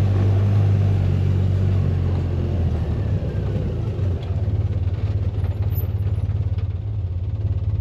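Polaris Ranger side-by-side (UTV) engine running under way, a steady low drone that changes to a lower, evenly pulsing note about three seconds in.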